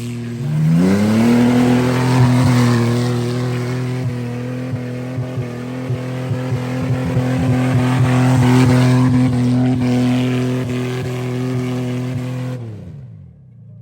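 Car engine revved up and held at a flat, steady high rpm for about eleven seconds, with brief stuttering pops, then let back down near the end.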